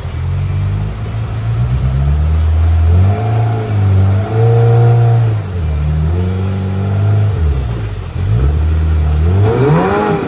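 Side-by-side UTV engine revving up and down in repeated bursts of throttle while climbing a rocky hill, with a sharp rising rev near the end.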